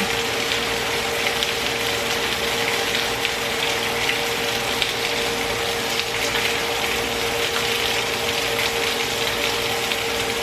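Chicken thighs browning in hot oil in a frying pan: a steady sizzle with small crackles and pops of spitting grease, over a steady hum.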